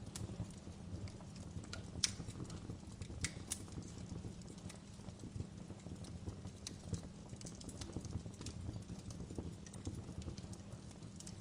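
Wood fire burning in a fireplace: irregular crackles and sharp pops over a steady low rumble, with two louder pops about two and three seconds in.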